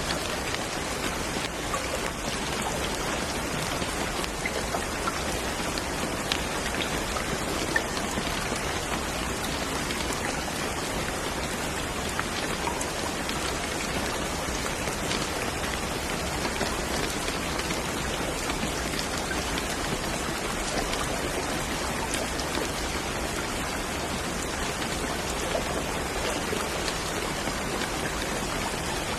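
Steady rain falling on a surface, a dense even hiss with scattered individual drops ticking.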